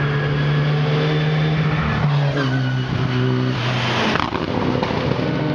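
Race car engine running hard on a hill-climb course, its note holding steady and then stepping in pitch several times about two to three seconds in, with a rush of noise as it passes near four seconds.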